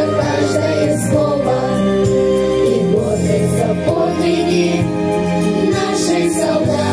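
A vocal group singing a song over an instrumental backing track, with long held notes.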